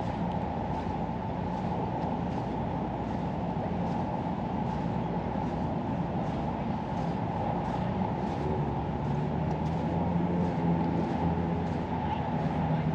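A motor vehicle's engine running over a steady rumble, its low hum growing stronger over the last few seconds.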